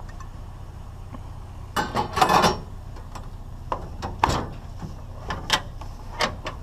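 Small metal pieces being handled and knocked together: a burst of rattling and scraping about two seconds in, then a string of sharp clicks and knocks.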